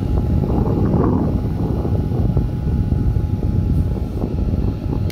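Small portable misting fan running on medium speed, its airflow blowing straight onto the microphone as a steady wind rumble, with a faint steady motor whine.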